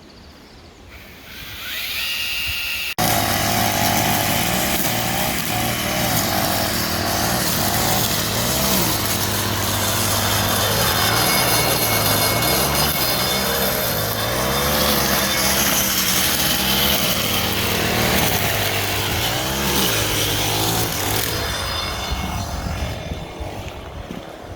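Small engine of a power tool, such as a chainsaw or brush cutter, running loud from about three seconds in, its pitch rising and falling as it revs under load, and easing off near the end.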